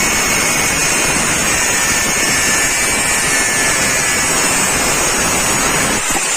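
Electric power tool grinding the steel of a chainsaw bar, running steadily with a high whine under load.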